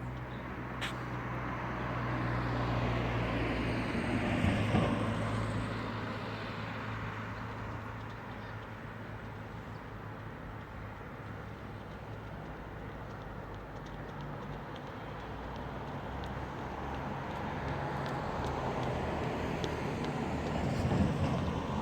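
Road traffic: vehicles passing by over a steady low engine hum, the noise swelling about four seconds in and again near the end.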